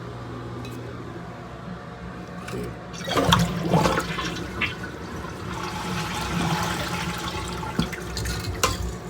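Toilet flushing: a low steady hum at first, then about three seconds in the flush starts with a loud surge of rushing water, which keeps running and draining.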